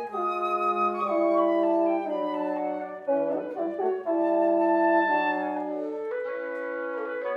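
Wind quintet (flute, oboe, clarinet, bassoon and horn) playing chords of held notes that change every half-second or so, with a short flurry of quick notes just past the middle.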